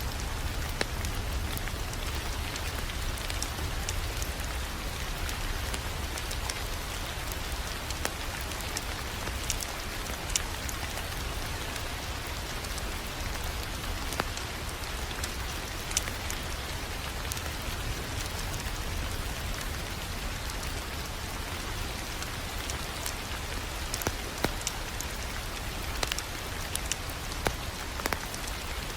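Fireplace fire crackling: a steady hiss over a low rumble, with scattered sharp pops and snaps that come more often near the end.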